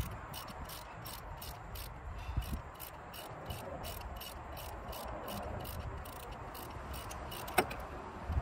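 Ratchet wrench clicking at about three clicks a second, with low wind rumble on the microphone and one sharper click near the end.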